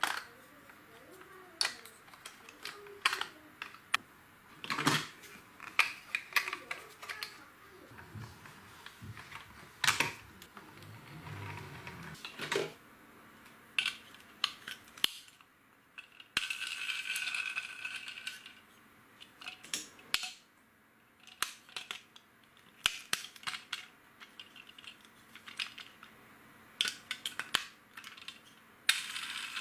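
Plastic LEGO bricks being handled and snapped together: irregular sharp clicks and small rattles, with a short stretch of rustling about halfway through.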